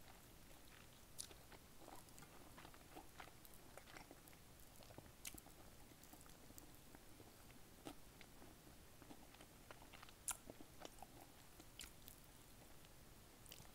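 Faint, close-miked chewing of crispy fried chicken with the mouth closed: irregular small wet mouth clicks and light crunches, with one sharper snap about ten seconds in.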